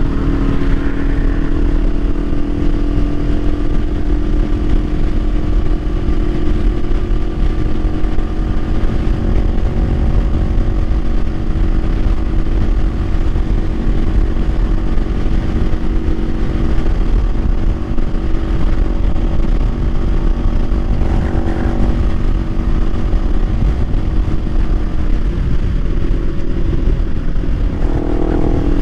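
Kawasaki Ninja 500's parallel-twin engine running at a steady cruise, its note holding fairly even, with a couple of brief throttle changes in the later part. Heavy wind rumble on the microphone runs underneath.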